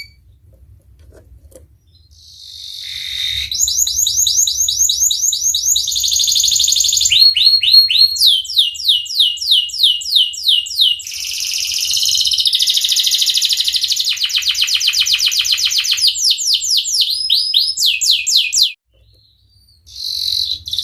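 Domestic canary singing a long song of rapid rolling trills: each note is repeated many times a second, then the bird switches to a new repeated note every second or two. The song breaks off briefly near the end and starts again.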